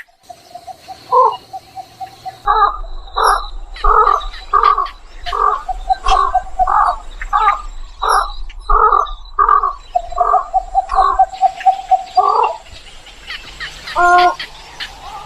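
Egret calling in a steady series, about two calls a second, with longer drawn-out notes about a second in and again about ten seconds in.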